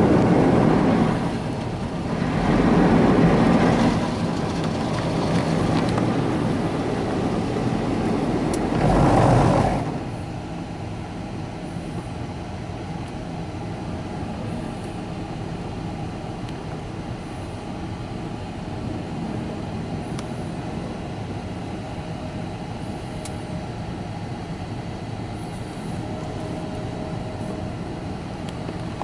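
Automatic car wash spraying the car in its wash cycle, heard from inside the cabin: loud surges of spray for about the first ten seconds, then a steadier, quieter run of the wash machinery.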